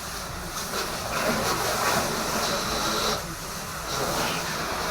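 Water from a garden hose spraying onto a truck's body to rinse off loose dirt, a steady hiss that swells and eases as the spray moves.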